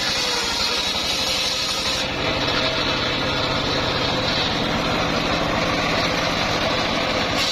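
Homemade circular saw rig running with a steady engine note while its blade cuts through timber. The sound changes abruptly about two seconds in and back near the end.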